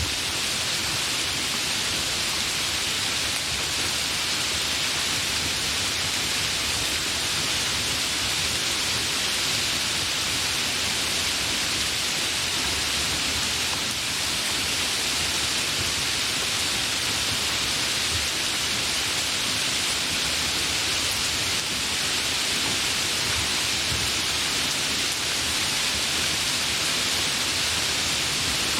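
Steady rainfall: a dense, even hiss of falling rain that holds constant, with no thunder.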